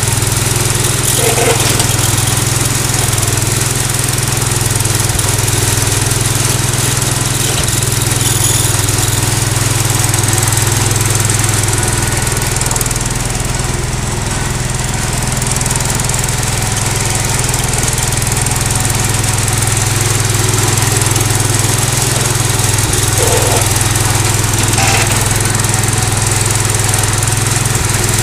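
Cub Cadet 149 garden tractor's single-cylinder Kohler engine running steadily, loud and close, with a slight dip in level about halfway through.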